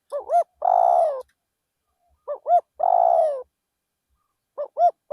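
Spotted dove cooing: a repeated phrase of two short notes followed by a longer note that drops in pitch, heard twice in full, with a third phrase beginning near the end.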